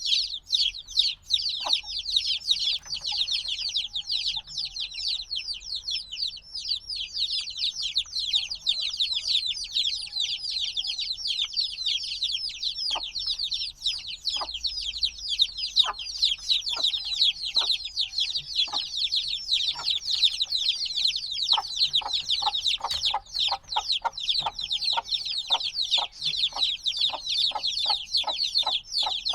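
A brood of newly hatched chicks peeping nonstop, a dense chorus of many short, high, downward-slurred peeps. From about two thirds of the way in, a quicker series of short, lower notes joins them.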